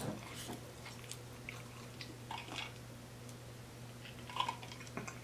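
Faint close-miked chewing of a mouthful of spaghetti: soft wet mouth clicks scattered through, over a low steady hum.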